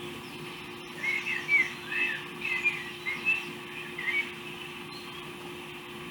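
A bird chirping: a run of short, quick chirps lasting about three seconds, over a steady low hum.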